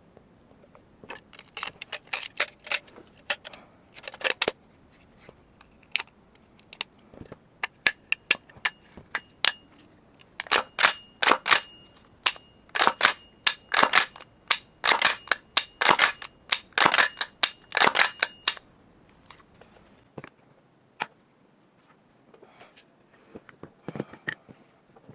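Sharp metallic clicks and snaps from the parts of a gas-blowback airsoft AR15 being worked by hand. They come in irregular clusters and are thickest in a busy run through the middle, then thin out near the end.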